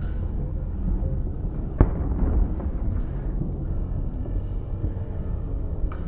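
Fireworks going off: a continuous low rumble of booms, with one sharp crack a little under two seconds in and a few smaller pops later.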